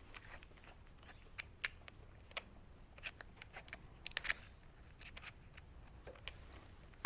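Faint scattered clicks and light taps of small hard tool parts being handled, with no drill motor running.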